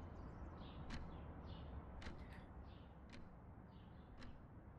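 Faint ambience bed: birds chirping briefly about once a second over a low steady hiss, with a few faint clicks.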